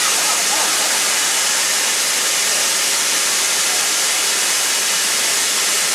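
Steam locomotive blowing off steam: a loud, steady hiss that drowns out everything else.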